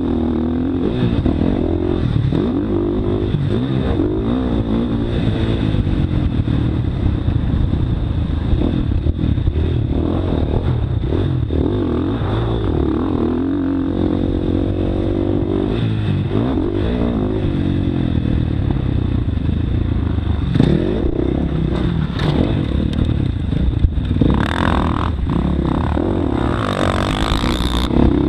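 Motocross bike's engine being ridden hard, revving up and down over and over as the rider works the throttle and gears. Sharp knocks and rattles come in the second half, with a short burst of hiss near the end.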